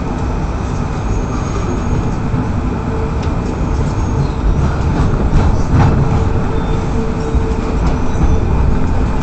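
Brisbane Citytrain electric suburban train heard from inside while running on the rails: a steady low rumble with clicks from the wheels and a louder clatter about six seconds in. Faint thin wheel squeals come and go.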